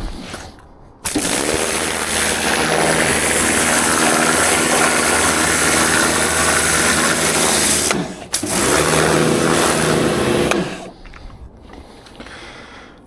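Handheld electric power tool running at full speed, starting abruptly about a second in, briefly stopping around eight seconds, then running again and winding down a couple of seconds later.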